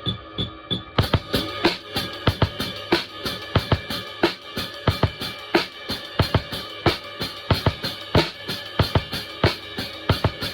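Drum kit played in a steady groove, kick and snare hits about three to four a second, over a backing track with keyboards. Cymbals come in about a second in.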